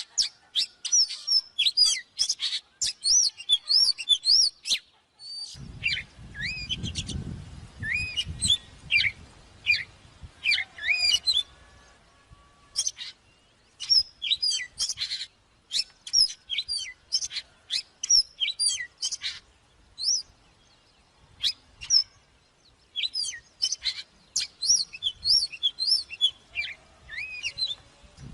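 Oriental magpie-robin singing: bursts of varied, quickly gliding whistled and chattering notes broken by short pauses. A low rumble runs under the song from about six to nine seconds in.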